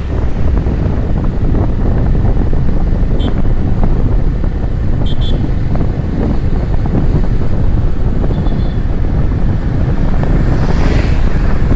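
Heavy wind buffeting the microphone, a steady loud low rumble, with a few brief faint high tones about three, five and eight and a half seconds in.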